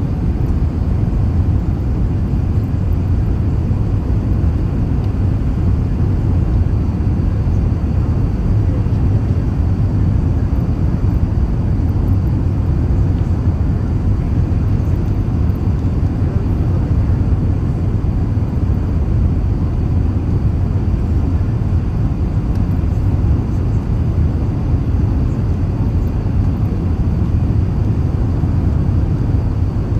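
Steady low rumble of an Airbus A380 airliner in flight, holding constant with no change in pitch or level.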